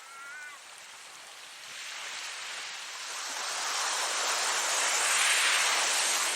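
Ocean surf: a wave comes in and breaks, its rushing wash swelling to a peak about five seconds in, then starting to fall away. A short, high, wavering call sounds at the very start.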